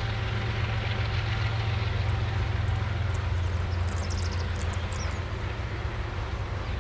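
Union Pacific freight train passing at close range, a steady low rumble as it works uphill. A few short high chirps cut through about four to five seconds in.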